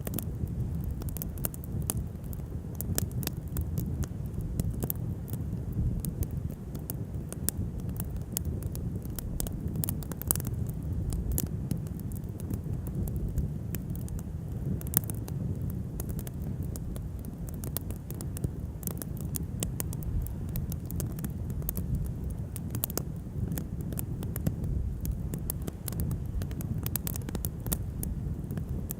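Wood fire crackling: irregular sharp pops and snaps over a low steady rumble of wind on the microphone.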